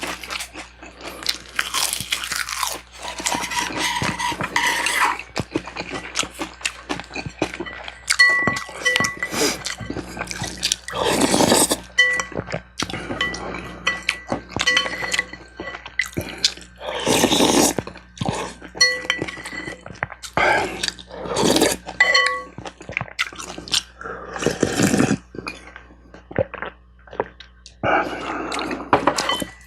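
Close-miked eating: irregular chewing and crunching of food, with several louder wet bursts and a few light clinks of cutlery on a dish.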